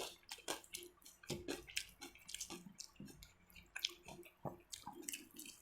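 Close-up eating sounds: irregular wet chewing and lip smacks, a string of short clicks, as mutton biryani is eaten.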